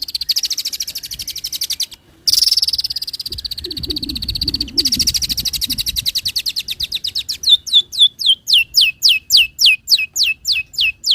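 Recorded songbird song: a fast, buzzy trill broken by two short gaps, then from about seven seconds in a rapid run of sharp down-slurred whistles, three or four a second.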